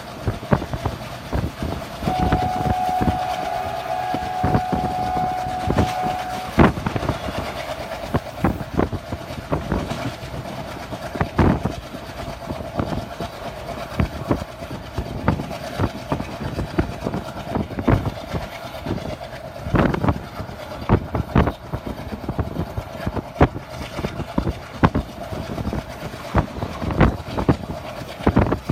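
Ride noise of a moving train heard from its window: a steady rush and hum with wheels clicking over rail joints at irregular intervals. A train horn sounds for about four seconds near the start.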